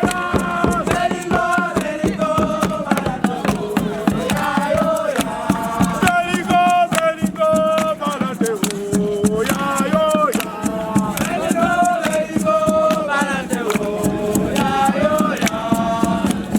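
A group of voices singing a chant together over a fast, steady percussive beat.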